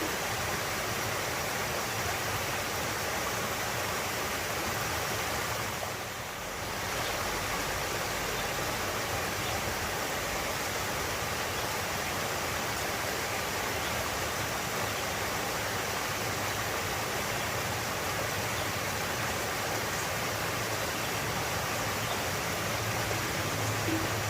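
Steady rushing of flowing water, a continuous even wash of noise that dips briefly once, about six seconds in.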